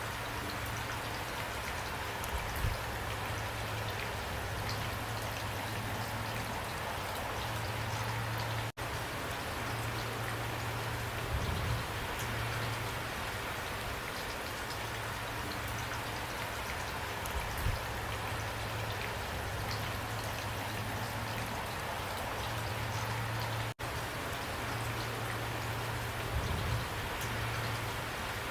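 Steady rain falling, with a low hum underneath and a few soft low thuds. The sound cuts out for an instant twice, about fifteen seconds apart.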